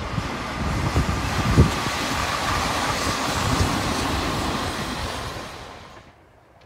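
Hanshin electric train running past: a steady rumble of wheels on rail with a steady whine and several low knocks in the first two seconds. It fades and then cuts off suddenly near the end.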